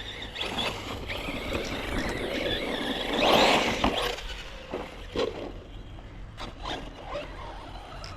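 Team Corally Kagama 6S RC buggy being driven over dirt: its electric motor whining with tyre and gravel noise, swelling loudest about three and a half seconds in, with a few short knocks afterwards.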